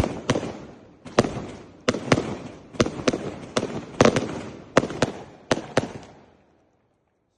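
'Ares God of War' 224-shot firework cake firing a rapid string of sharp bangs, about two a second, each followed by a short crackling tail. The volley dies away about six seconds in.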